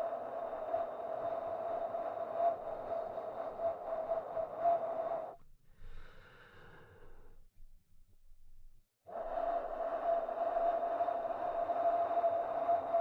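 Wind blowing steadily with a constant humming tone through it. It breaks off about five seconds in, a fainter sound follows briefly, then a short silence, and the wind returns about nine seconds in.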